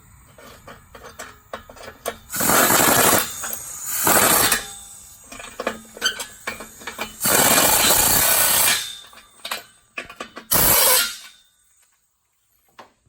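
A power tool run in four short bursts of about a second each on the car's exhaust piping, cutting the resonators out of the 5.7 HEMI Dodge Magnum's exhaust. Clanks and knocks come between the bursts.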